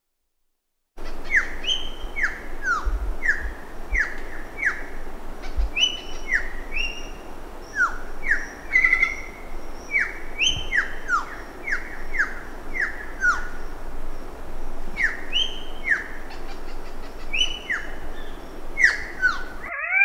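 Amazon rainforest birds calling: many quick whistled notes, each sliding downward, repeating one after another over a steady background hiss. They begin about a second in and cut off abruptly near the end.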